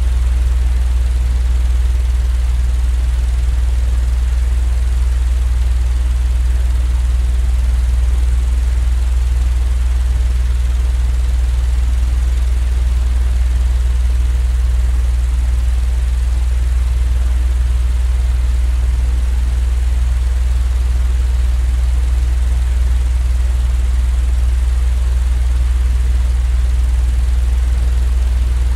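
Steady, unchanging low mechanical drone of a sleep-aid noise track, a deep hum with faint hiss above it and no change in level.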